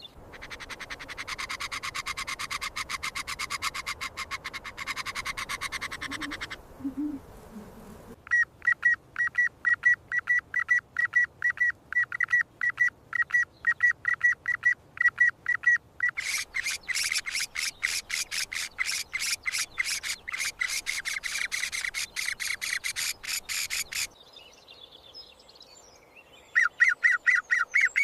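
Birds calling in fast runs of short, repeated chirps, several seconds at a time, each run breaking off sharply into a different one. A short lull near the end is followed by a loud new run of pulsed chirps.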